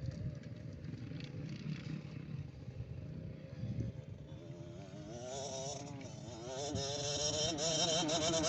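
Motocross bike engine running with a wavering pitch, growing louder from about five seconds in.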